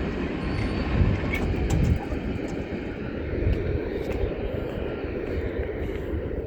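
Steady low vehicle rumble with no clear tone, dropping a little in level about two seconds in.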